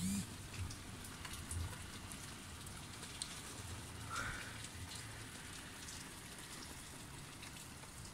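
Rain falling: a faint, steady hiss with scattered ticks of drops.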